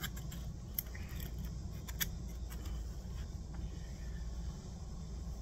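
A few light, sharp metallic clicks as a thin metal shim is handled and worked into shape, over a steady low background hum.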